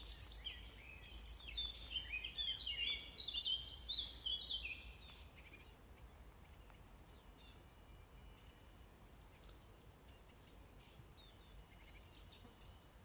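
Songbirds singing: a loud run of rapid chirping notes for about the first five seconds, then only faint, scattered chirps. A steady low city rumble sits beneath.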